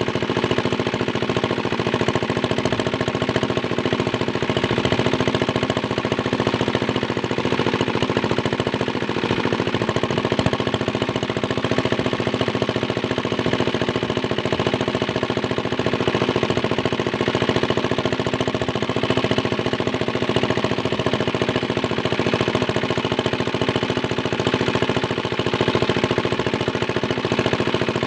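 Small Chinese diesel engine driving a water pump, running steadily with a rapid, even knocking beat.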